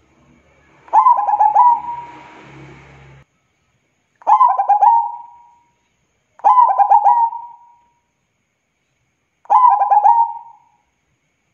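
Zebra dove (perkutut) cooing: four phrases a few seconds apart, each a quick run of short staccato coos ending in a drawn-out note.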